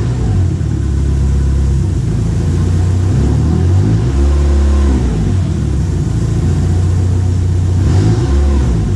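Chevette's AP engine running on stands, revved and let back down about four seconds in and again near the end, to bring out a knock traced to the exhaust pipe vibrating against the gearbox mount.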